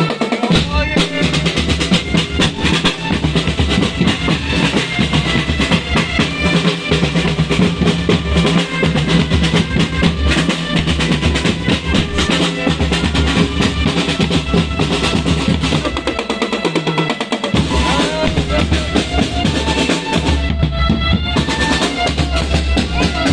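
A marching band playing, its drumline of snare and bass drums beating fast and steadily under held melody notes.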